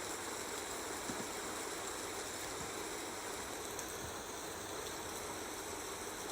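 Steady nature ambience: an even hiss of water with a constant high-pitched insect chorus over it.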